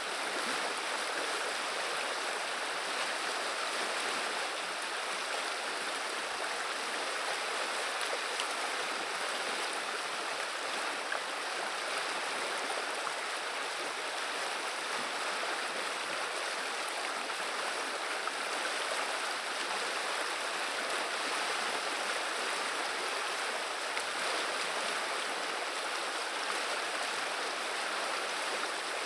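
Running river water, a steady babbling and rushing that holds even throughout.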